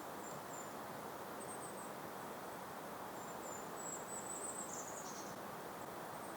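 Gentle breeze with faint, very high, thin bird calls: a few short chirps, then a longer twittering run about three to five seconds in.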